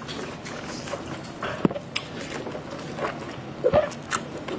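Close-miked sounds of someone eating seafood: wet chewing and slurping, with a few sharp clicks.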